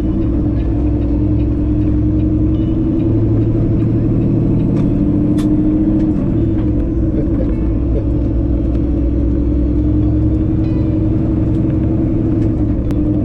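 Semi-truck diesel engine running steadily under way, heard from inside the cab, with a low rumble beneath.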